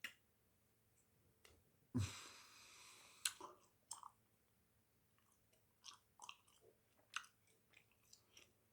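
Close-miked chewing of a thick wad of bubble gum (two pieces of Hubba Bubba), with scattered wet clicks and smacks. A longer breathy rush comes about two seconds in.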